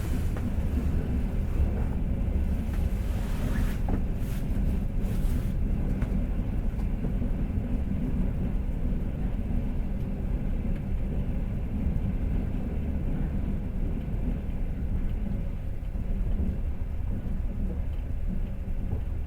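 Passenger train running, the steady rumble of its wheels on the rails heard from inside the carriage, with a few brief sharper noises about four to five seconds in.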